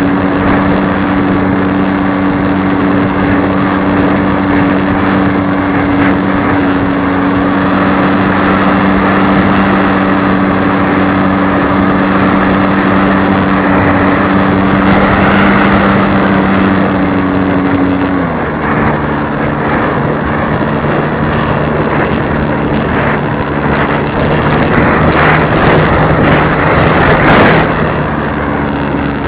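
Radio-controlled model airplane's motor running at a steady pitch, dropping to a lower pitch about eighteen seconds in. A rush of wind noise swells a few seconds before the end.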